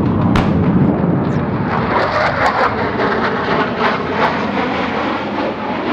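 Aircraft engine drone with a run of sharp cracks and bangs over it. The cracks are most frequent from about two seconds in.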